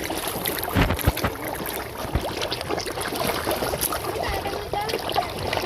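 Water splashing and churning as many large fish thrash at the surface fighting over food: a continuous spatter of small splashes with a few heavier thumps in the first two seconds or so.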